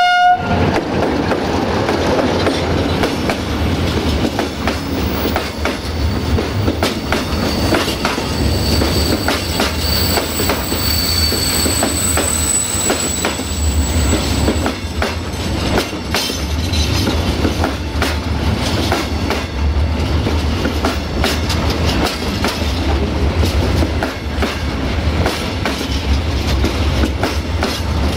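Freight train of hopper wagons rolling past close by, the wheels clacking steadily over the rail joints. A thin high wheel squeal rises over the rolling noise for several seconds about a third of the way in. The tail of the locomotive's horn blast cuts off right at the start.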